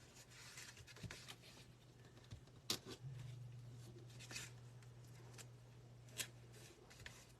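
Quiet handling of card stock and ribbon: a few light taps and faint scrapes as the folded ribbon is pressed down, over a low steady hum.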